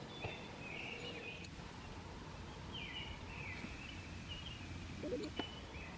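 Songbirds calling in short warbling phrases, twice, over a steady low outdoor background, with a couple of faint clicks near the end.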